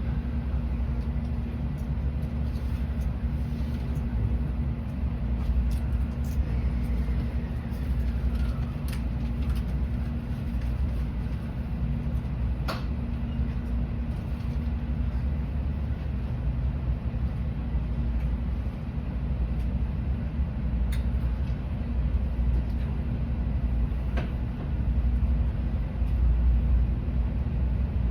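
Cabin noise inside a moving N700-series Shinkansen car: a steady low rumble and hum from the running train, with a few sharp clicks.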